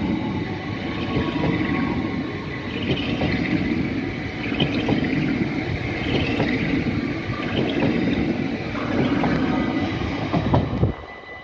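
NS Sprinter Lighttrain electric multiple unit passing close by, a steady rumble of wheels on the track with many short clicks from the wheels. The sound drops away abruptly just before the end.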